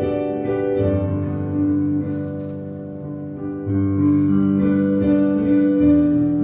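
Slow instrumental keyboard music: held chords, with the chord changing every second or two.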